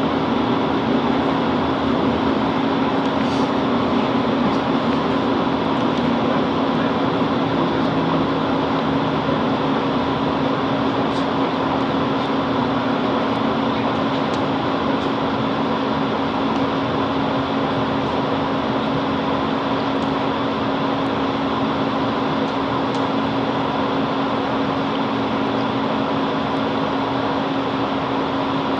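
Steady hum of a Class 165 Networker Turbo diesel multiple unit standing with its underfloor diesel engine idling, heard from inside the carriage, with a low drone and a few faint ticks.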